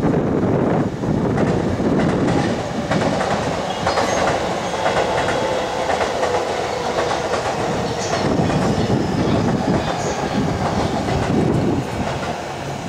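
Tokyo Metro 05 series electric train rolling slowly over a run of switches, its wheels clacking over the rail joints and points.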